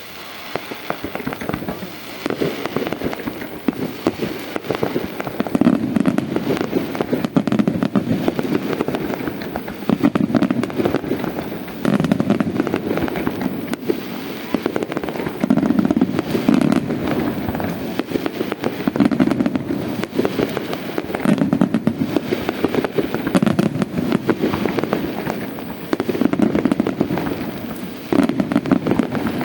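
Aerial fireworks display with shells bursting in quick succession: heavy booms every second or two over continuous dense crackling. It builds up over the first couple of seconds and stays loud.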